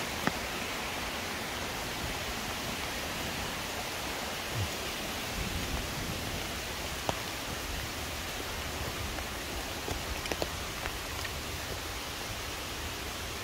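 Steady rush of a stream and waterfall, with a few short, sharp clicks scattered through it.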